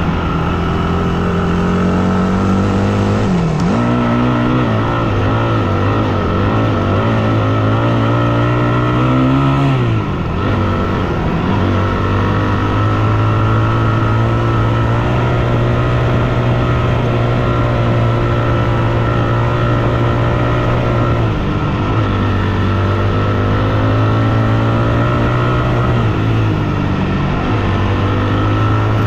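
Yamaha WR250F's single-cylinder four-stroke engine running at steady revs while riding. The revs drop briefly and pick up again about three seconds in, about ten seconds in, and twice more near the end.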